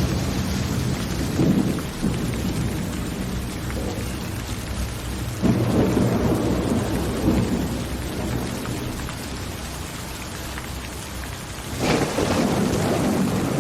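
Steady rain with thunder rumbling: a short roll a little over a second in, a longer one about five and a half seconds in, and another starting near the end.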